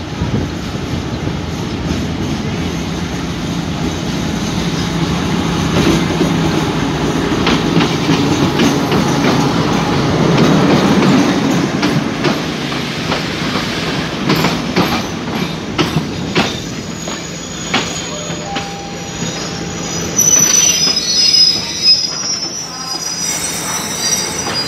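Alsthom diesel-electric locomotive 4130 of the State Railway of Thailand pulling a passenger train into a station. The engine drone swells as the locomotive passes close by, the wheels clack over the rail joints, and near the end high brake and wheel squeals sound as the train slows to a stop.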